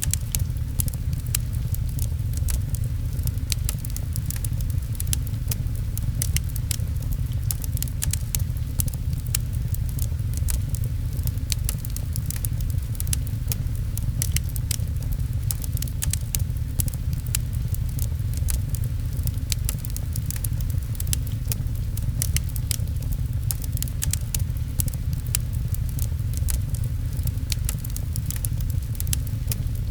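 Wood fire crackling, with frequent sharp pops, over rain pattering and a steady low rumble.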